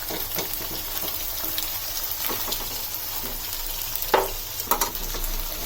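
Chicken pieces frying and sizzling in a pan as they are stirred, with a steady hiss and a few sharp knocks of the spoon against the pan about four and five seconds in.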